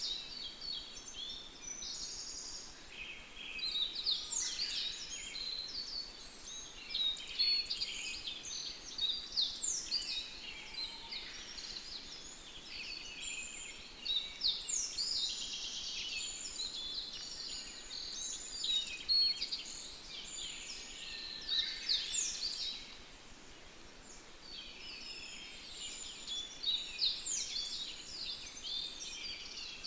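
Several songbirds singing together: overlapping high chirps and rapid trills, one phrase after another, over a faint steady hiss.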